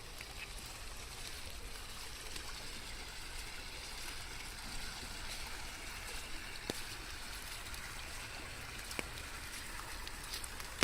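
Steady rain with a constant hiss and a few scattered sharp ticks of drops.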